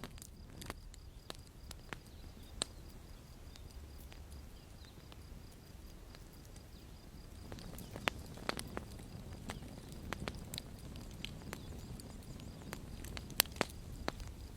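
Campfire crackling: irregular sharp pops and snaps over a low, steady rumble of burning wood, with the loudest pops about eight seconds in and near the end.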